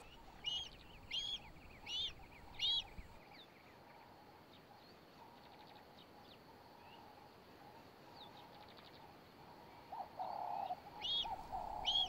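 Bird chirping: a run of four short, high, arched chirps about one every 0.7 s, then only faint scattered calls, then another run of chirps near the end.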